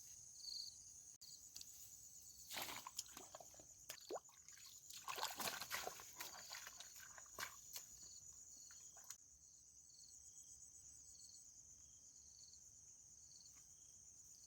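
Crickets or other insects chirping steadily in a quiet outdoor setting, with a short stretch of irregular rustling or sloshing noise in the middle.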